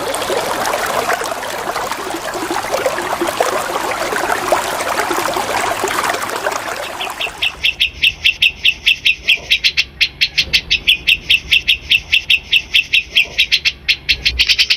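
Running water trickles steadily for about seven seconds. It then gives way to a bulbul's song: a fast, even run of sharp, high chirps, about six a second.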